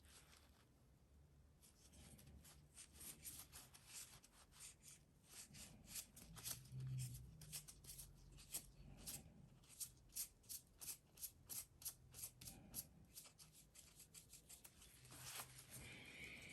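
Faint, quick rubbing strokes, about three a second, from hand work on a Toyota Denso starter's parts, starting about two seconds in.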